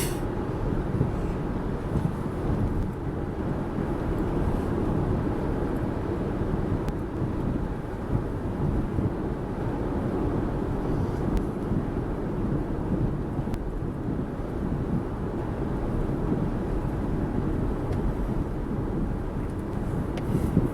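Steady road and wind noise from a moving car: an even low rumble with no clear tones.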